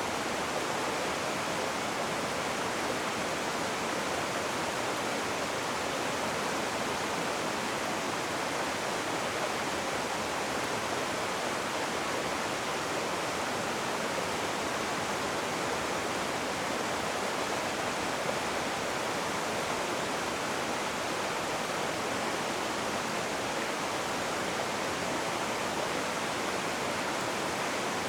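Rushing water, a steady even rush with no changes.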